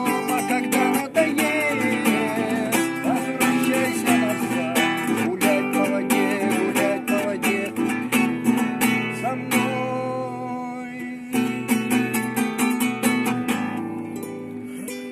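Acoustic guitar strummed in chords as the instrumental close of a song, dying away over the last few seconds.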